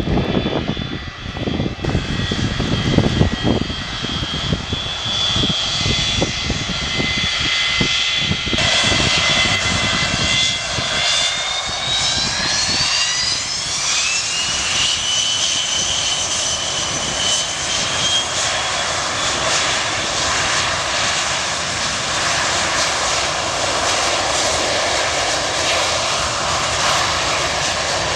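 Jet airliner engines running with a steady roar and a high fan whine, with gusty low rumble in the first few seconds. About ten seconds in, the whine rises in pitch over a few seconds as the engines spool up to higher thrust, then holds steady.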